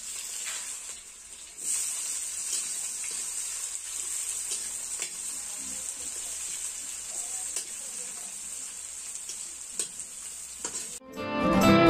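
Sliced onions sizzling in hot oil in a large kadhai, stirred and scraped with a metal spatula, with occasional light clinks. Guitar music comes in suddenly near the end, louder than the frying.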